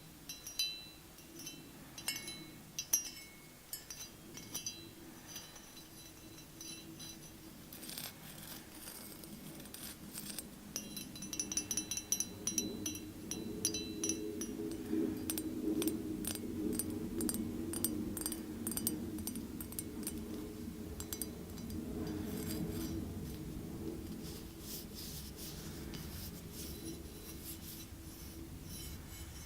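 Close-up ASMR tapping on hard objects that ring briefly, making sharp clinks. About halfway through it turns into continuous scratching and rubbing with rapid taps.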